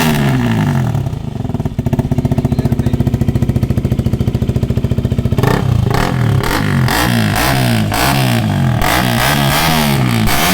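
KTM RC 200's single-cylinder engine running through a newly fitted full-system Akrapovic exhaust. The revs fall back to a steady, pulsing idle, then from about halfway it is blipped again and again, the pitch rising and falling with each blip.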